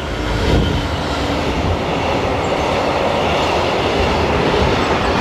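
A train passing through the station at speed close to the platform: a loud, steady rushing noise of wheels on rail and moving air.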